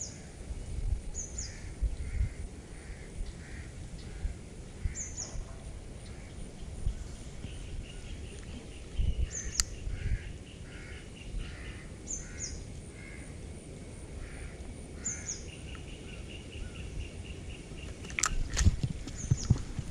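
Birds calling: a short, high, falling chirp repeats every two to three seconds, with runs of lower, evenly spaced calls in between. A low rumble lies underneath, and a few sharp clicks come near the end.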